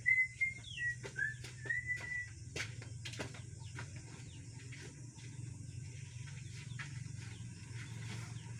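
A few clear whistled notes in the first two seconds, one held and the others short and rising. Light scattered clicks and knocks follow over a steady low hum.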